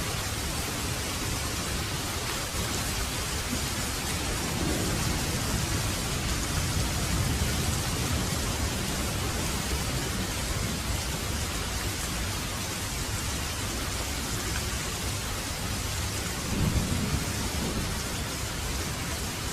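Heavy rain falling steadily, with low thunder rumbling twice: once a few seconds in and again near the end.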